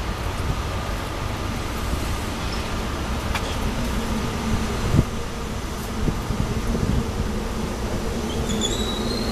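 SEPTA Silverliner IV electric train pulling into a station: a steady rumble and hum with a buzz, one knock about halfway, and a high brake or wheel squeal rising near the end as it slows.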